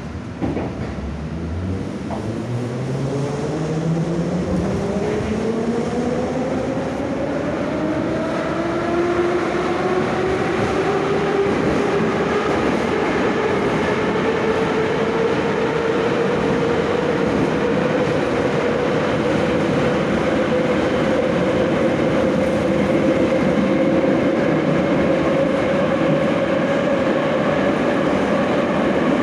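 Moscow Metro 81-717/714 'Nomernoy' subway train pulling away: a knock at the start, then the traction motors' whine rising in pitch for about ten seconds as the train accelerates, levelling off into a steady whine over running and rail noise at speed.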